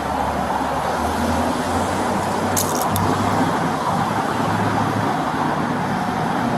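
Steady roadway traffic noise with a low engine hum, and a brief high-pitched metallic jingle about two and a half seconds in.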